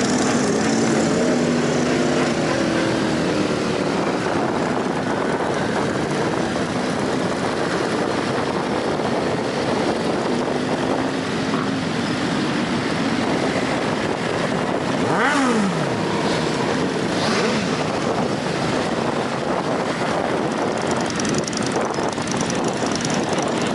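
Dense motorcycle traffic: many engines running together in a steady din, their pitches rising and falling. About fifteen seconds in, one bike passes close with a sharply falling pitch.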